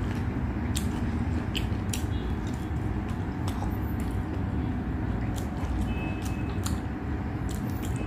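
Close-miked chewing and mouth sounds of a person eating fried fish and potato wedges by hand, with many short, sharp clicks at an uneven pace, over a steady low hum.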